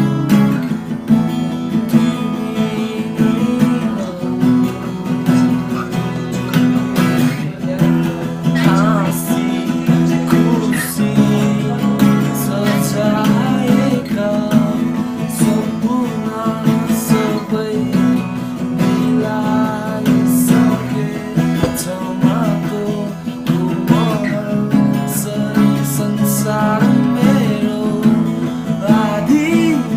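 Music: a strummed acoustic guitar playing steadily, with a voice singing a melody over it at times.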